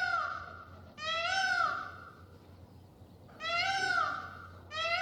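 An animal calling over and over: high, meowing cries about a second long, each rising and then falling in pitch. About four calls, with a longer pause in the middle.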